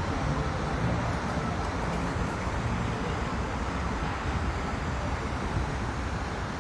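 Steady outdoor traffic noise, a low rumble with an even hiss above it.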